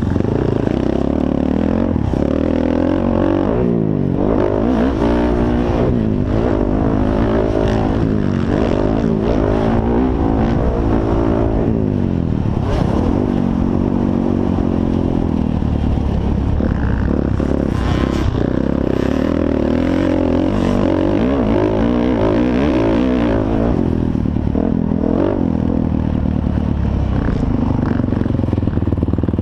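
Motocross dirt bike engines racing, revving up and falling back over and over.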